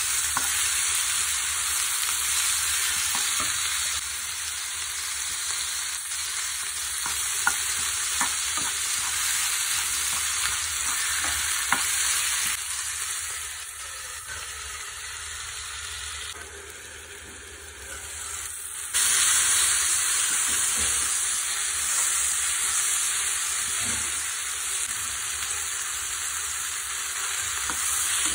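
Onions and tomatoes sizzling in oil in a non-stick frying pan while a wooden spatula stirs and scrapes them, with scattered light clicks. Around the middle the sizzle turns quieter and duller for several seconds under a glass lid, then comes back full and loud about two-thirds of the way through.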